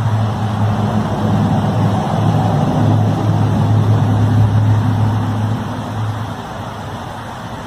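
A loud, low, steady droning hum of one unchanging pitch. It swells to a peak and then fades about six seconds in.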